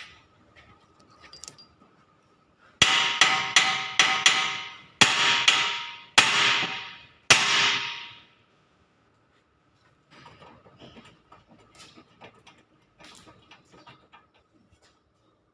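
Hammer blows on steel, about ten sharp ringing strikes over some five seconds, knocking a worn tie rod end loose from the steering. Fainter tool clinks follow near the end.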